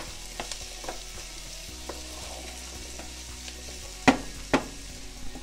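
Cubed butternut squash, onion and tomato sizzling in hot oil in a frying pan while a spoon stirs them, scraping and clicking against the pan. Two louder knocks of the spoon on the pan come about four seconds in, half a second apart.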